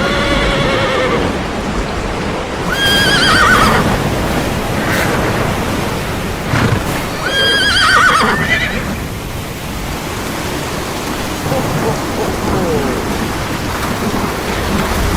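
Animal calls over a steady rushing noise. Two long calls, about five seconds apart, each start high and level and then fall with a quaver, and a shorter, lower call comes at the very start.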